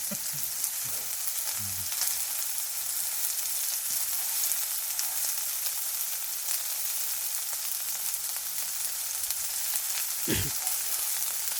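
Pork belly sizzling as it grills: a steady, crackling hiss much like rain.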